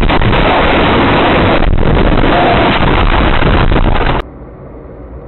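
Loud, steady rushing vehicle noise picked up by a dashcam microphone, road and wind noise over engine rumble. It cuts off abruptly about four seconds in and gives way to a much quieter background.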